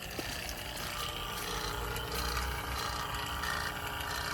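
A machine running with a steady low hum and faint steady tones.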